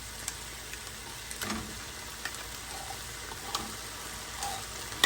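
Chicken sizzling steadily in a pan on full gas, with a few scattered clicks of a utensil against the pan.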